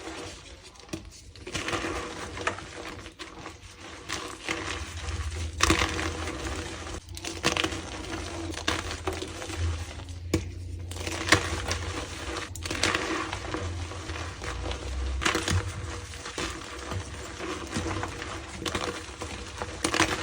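Reformed gym chalk being crushed by hand, crunching and crumbling with dense irregular crackles and sharp snaps.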